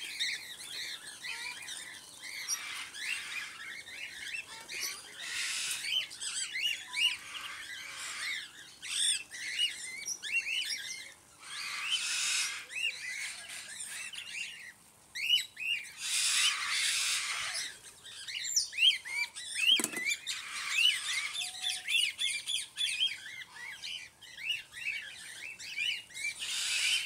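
Flock of cockatiels chirping and calling without a break, short rising and falling chirps overlapping, with several louder, harsher bursts mixed in.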